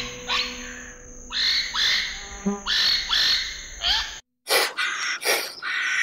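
A series of short animal calls, each sliding up in pitch, over a steady high background tone. After a sudden break about four seconds in comes a quick run of four or five harsher calls.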